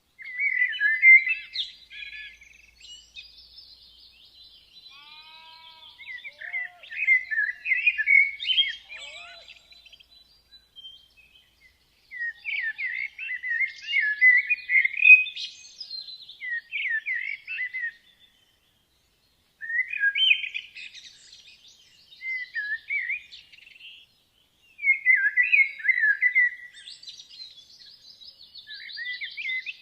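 Woodland songbirds singing: bright chirping phrases of a few seconds each, repeated with short pauses, over a fainter high twittering from other birds.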